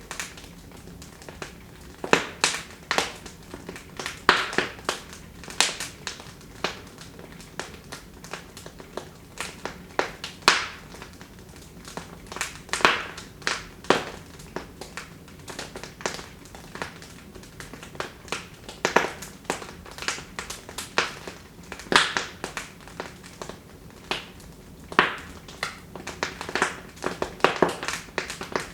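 Wood fire in a fireplace crackling, with irregular sharp pops and snaps, some loud, over a faint steady hiss.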